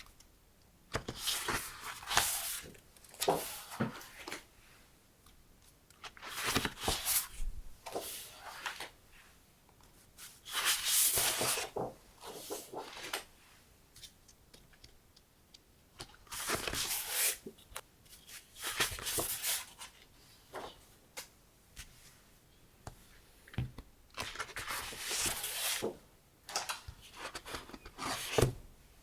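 Deco paper sheets and their packaging being handled, rustling and crinkling in about nine short bursts of a second or two, with quiet pauses between.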